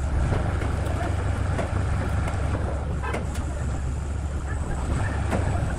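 A steady, low machine rumble, like a large engine running, with scattered sharp clicks and knocks over it.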